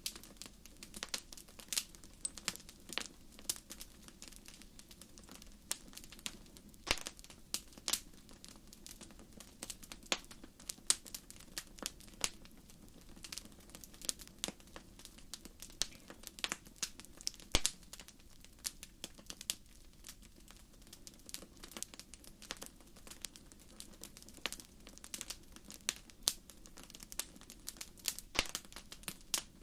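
Wood fire crackling in a fireplace: frequent irregular pops and snaps over a faint, steady low background.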